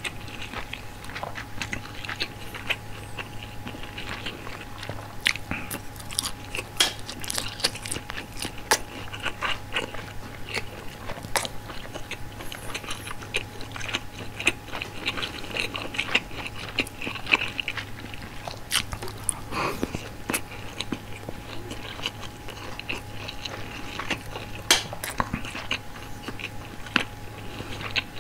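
A person chewing and biting frankfurter sausage and white rice close to the microphone, with many short, sharp wet mouth clicks.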